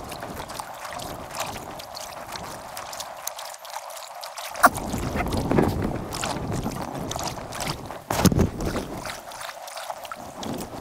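Kayak paddling on a river: paddle strokes splashing and dripping in the water, with gusts of wind buffeting the microphone, heaviest about halfway through and again near the end.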